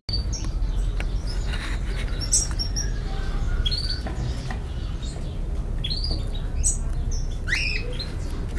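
Birds chirping, many short calls and quick falling chirps scattered throughout, over a steady low hum.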